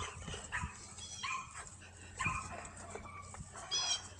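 A dog barking, several short barks spread over a few seconds.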